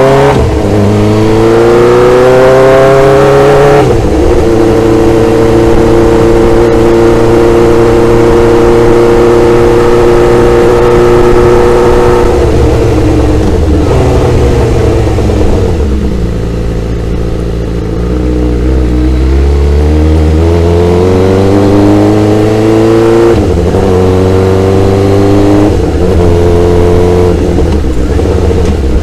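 Motorcycle engine under way: the revs climb to a gear change about four seconds in, hold steady at cruise, then fall away. They build again through two quick shifts near the end.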